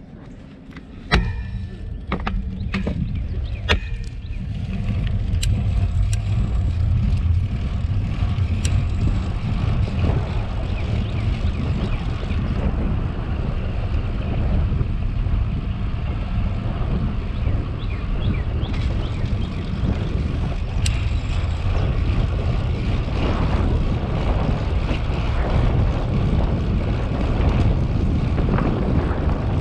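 Wind rushing over the microphone of a bicycle rider on the move, building up over the first few seconds as the bike gets going and then holding steady. A few sharp clicks near the start.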